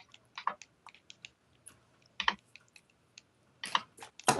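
Computer keyboard keys clicking at an irregular pace, with a few louder clacks about two seconds in and near the end.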